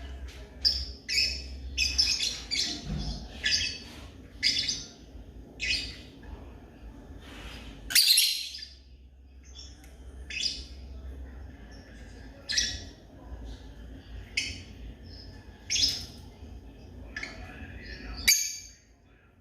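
Lovebirds giving short, sharp chirps, one every half second to a second at an uneven pace, with the loudest calls near the middle and just before the end.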